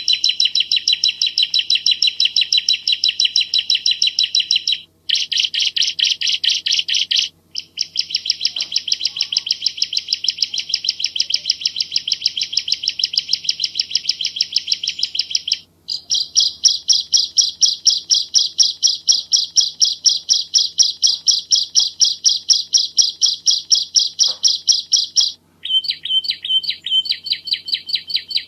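Bar-winged prinia singing: long runs of fast, tightly repeated chirps, several a second, broken by short pauses into about five runs.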